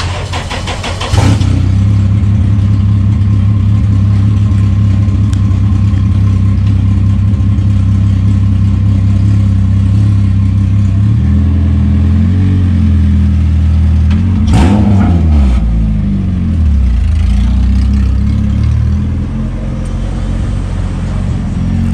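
Honda Civic's four-cylinder engine starting about a second in and then running steadily, with a quick rev around the middle.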